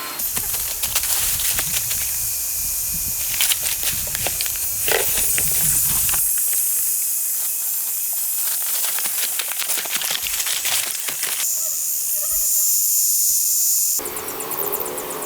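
A steady hiss with many scattered crackles and clicks, changing abruptly several times as if cut between shots.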